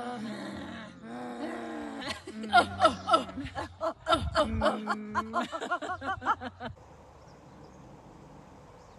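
Voice-like vocal sounds with snickering, laughter-like bursts for about seven seconds, then they stop and only a faint steady background hiss remains.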